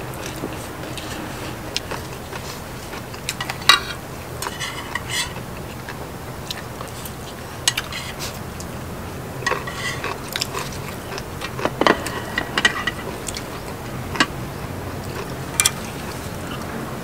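Eating sounds: utensils clicking and clinking against dishes at irregular moments, with biting and chewing of noodles and meat, over a steady low hum.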